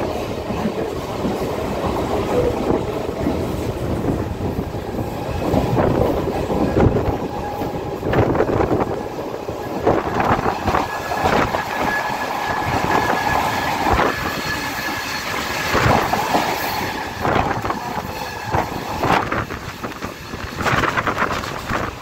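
Mumbai suburban electric local train running at speed, wheels clattering over rail joints with a constant rumble. In the middle another local train rushes past close by on the next track, making the clatter denser and louder and adding a thin steady wheel squeal.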